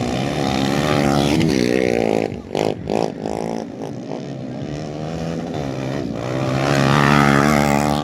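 Underbone racing motorcycle engines revving hard, the pitch sliding up and down with throttle and gear changes. There are two brief throttle cuts about two and a half to three seconds in, and a rev climbing to its loudest near the end.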